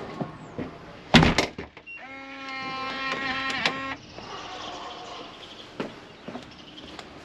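A loud knock like a door shutting about a second in, then a steady pitched electric-motor whine for about two seconds, like a car's power window running.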